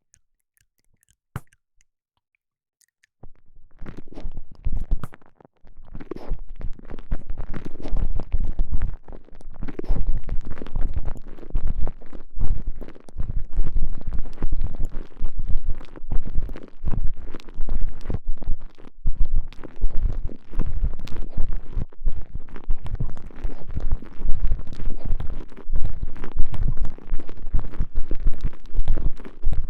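Stretchy elastomer sleeve of a TENGA Egg squeezed and rubbed around a microphone pushed inside it: close, dense crackling and squishing handling noise with deep thumps. It starts about three seconds in, after a single click.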